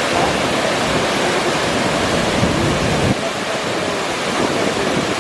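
Steady roar of the Athirappilly waterfall's rushing water, loud and close, with a low wind rumble on the microphone that drops away about three seconds in.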